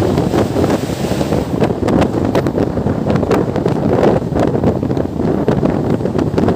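Wind buffeting the microphone over the running rumble of a moving express train coach, with rapid sharp clicks and knocks from the wheels on the track.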